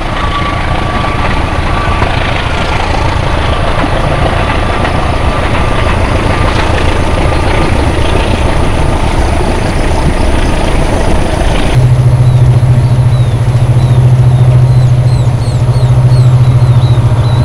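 A passenger train rumbles away along the track, with a faint thin whine. About two-thirds in it cuts to the steady low drone of two CC 205 diesel-electric locomotives hauling a long coal train, with birds chirping over it.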